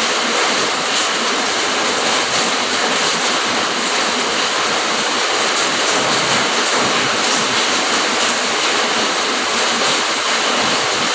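Rain falling steadily, a dense even hiss with no single drops or other sounds standing out.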